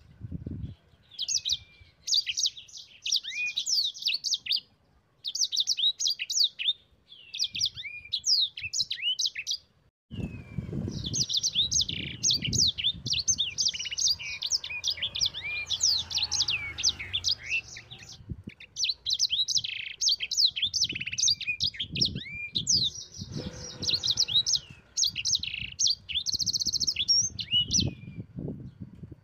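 A sanger songbird, the small cage finch sold under that name, singing loud, rapid, high chattering song in bursts of a few seconds separated by short pauses, with a longer unbroken run about a third of the way in. Low knocks and rustling sound under parts of the song.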